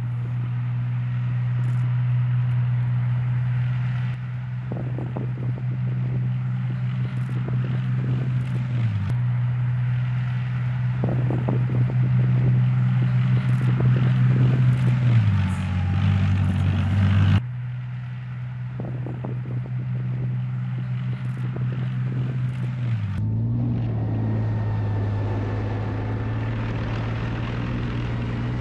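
Leopard tank's diesel engine running with a steady low drone, its pitch sagging and recovering a few times as the revs change, with scattered knocks over it.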